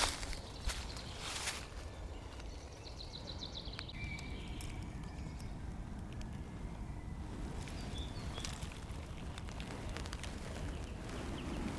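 Small birds calling in the woods: a short rapid trill and a few brief whistled notes over a steady low rumble, with a few crunching footsteps in the first second or so.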